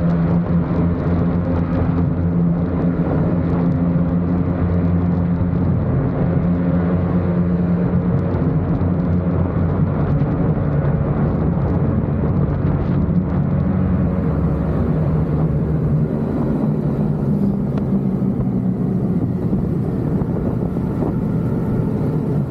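Motorcycle engine running steadily under way, its exhaust note holding an even pitch with only slight wavering.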